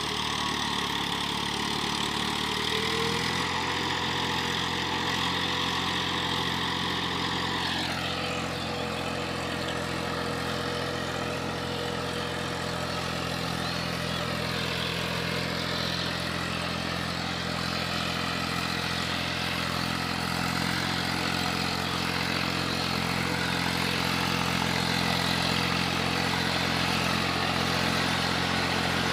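Eicher 480 tractor's diesel engine running steadily, its tone shifting a little about three seconds in and again around eight seconds in.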